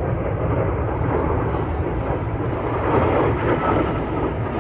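Jet aircraft flying past, a steady rushing engine noise that swells a little about three seconds in.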